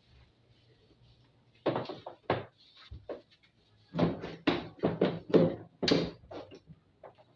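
Hard knocks and clatter of parts being handled while a washing machine is being taken apart: two knocks about two seconds in, then a quick run of about a dozen knocks from about four seconds to six and a half.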